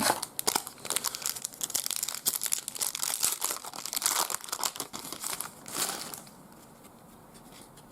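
A trading card pack wrapper being torn open and crinkled, a dense crackling that stops about six seconds in.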